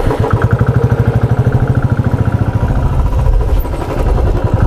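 Royal Enfield Classic 350's single-cylinder engine running at low revs with an even, rapid pulse.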